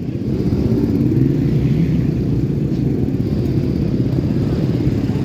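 Motocross dirt bikes running on the track, a steady low mix of engines with faint rises and falls in pitch as riders rev.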